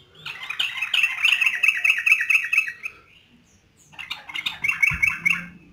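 Yellow-vented bulbul (trucuk) singing energetically in two fast, chattering bursts of repeated notes: a long one of about three seconds, then a shorter one starting about four seconds in.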